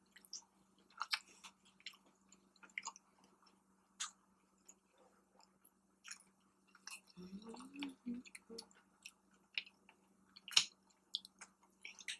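Quiet close-up chewing of a boneless chicken wing: soft, scattered mouth clicks and smacks, with a brief low hum about seven seconds in.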